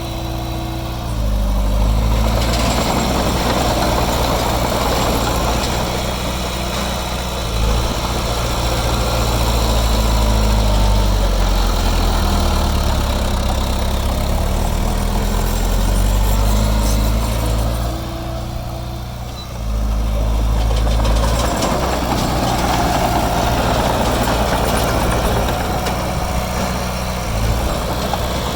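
Heavy diesel engine of earthmoving machinery running loudly, its note rising and falling repeatedly as it works under changing load, with a short lull about two-thirds of the way through.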